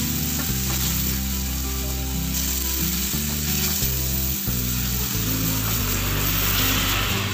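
Minced beef and onions sizzling in a frying pan as they are stirred with a spatula, under background music with a stepping bass line.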